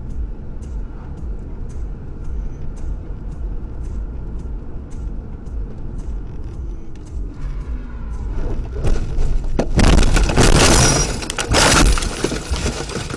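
A car's steady road rumble with scattered light ticks, then about nine seconds in a vehicle crash: a loud crunching impact with breaking glass that lasts around two seconds.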